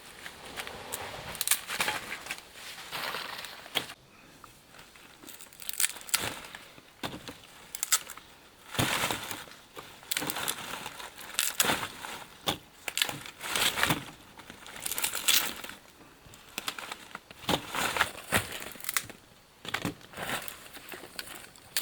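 Dry leaves and plant matter crunching and rustling in irregular bursts, as forest vegetation is handled or pushed through.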